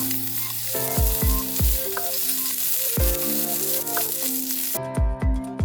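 Food sizzling in a hot pan, a steady hiss that cuts off suddenly near the end, under background music with a melody and bass-drum beats.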